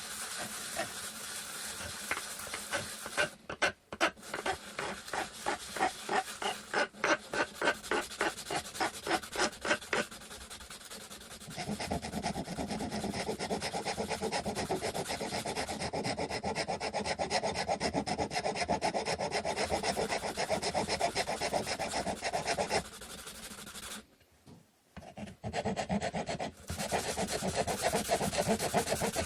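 A wooden stick being worked by hand with an abrasive tool (a file or sandpaper). First come rhythmic back-and-forth strokes, about two a second. Then it settles into a steady rubbing, with a short pause near the end before the rubbing resumes.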